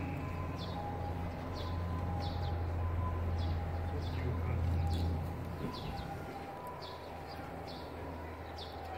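A small bird calling repeatedly with short, falling chirps, about one a second, over the low murmur of an outdoor crowd. A steady low hum under it drops away about five seconds in.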